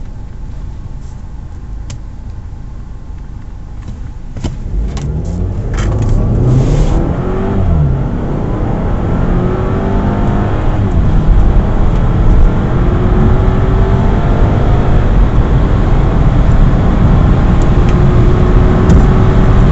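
Audi 2.0-litre turbocharged four-cylinder engine heard from inside the car, at first running quietly with a few clicks, then accelerating hard from a standstill about five seconds in. It grows louder, and its note climbs, drops back at each upshift and climbs again as it goes up through the gears.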